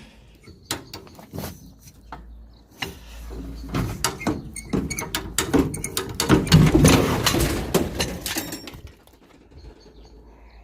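High-lift jack being let down with a series of ratchet clicks, then the Steyr-Puch Haflinger comes down off it quicker than expected with a loud metal clatter and knocks about six to eight seconds in, rocking on its suspension before settling.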